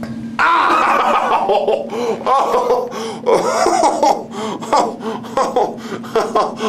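Loud, hearty laughter breaking out about half a second in and carrying on in waves.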